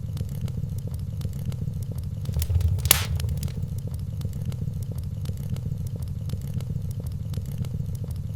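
Wood fire burning in a fireplace: a steady low rumble with faint scattered crackles, and one louder pop about three seconds in.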